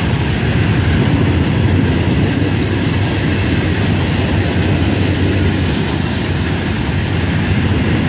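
Florida East Coast Railway freight train rolling past at a moderate speed: a steady loud rumble of the cars, with wheels clicking over the rail joints.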